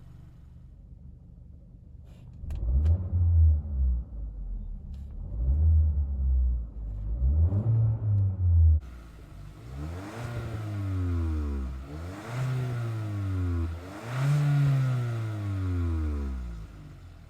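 2020 Hyundai Sonata's 1.6-litre turbocharged four-cylinder idling, then revved about six times, each rev climbing and falling back. The first three blips are short, and the later three are held a little longer.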